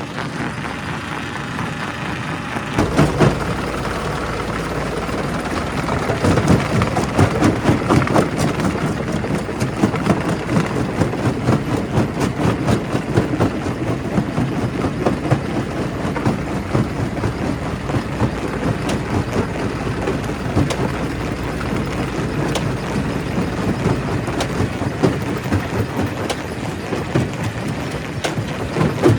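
Primary rock crusher running with rock in it: a steady heavy machine rumble under dense, irregular knocking and clattering of stone being broken. The rumble deepens and the knocks grow louder about three seconds in.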